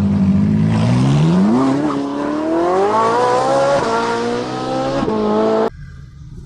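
Engine revving, climbing steadily in pitch over about five seconds with a couple of small shift-like steps, then cutting off abruptly near the end.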